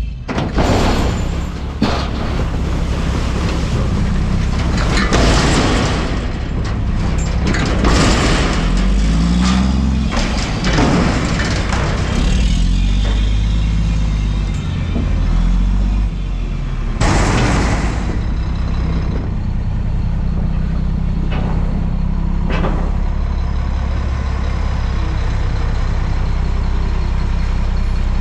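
Front-loader garbage truck's diesel engine running and revving up and down as it drives the hydraulics. Several loud rushing bursts come over it, the loudest about 17 seconds in.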